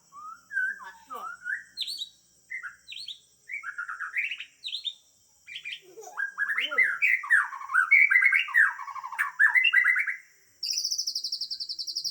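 A songbird singing a varied string of short chirps and whistles, growing into fast chattering phrases. Near the end it gives way to a high, steady, rapid trill.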